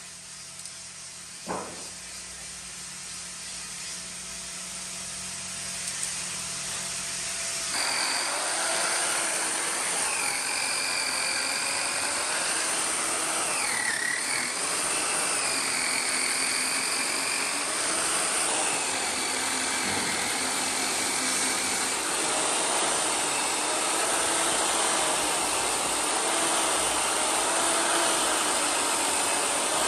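A power tool's motor starts about eight seconds in and keeps running with a dense hiss, its pitch wavering up and down as the load changes. Before that there is a faint low hum and a single short sharp sound.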